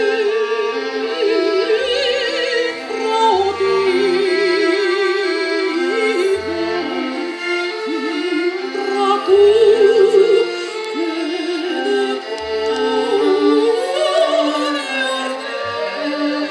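Operatic singing with wide vibrato, accompanied by a symphonic ensemble of strings and bass.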